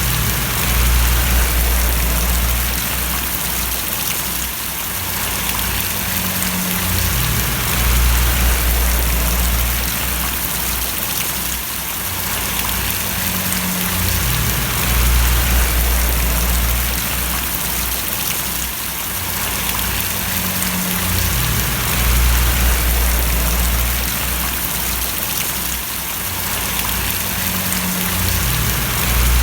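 Rain falling steadily and splashing on surfaces as an even hiss, with a deep low rumble underneath that swells and drops out about every seven seconds.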